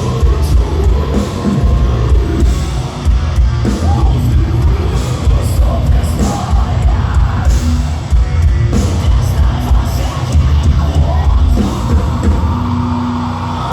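Metalcore band playing live at loud volume: distorted guitars, heavy pounding drums and bass, with screamed vocals.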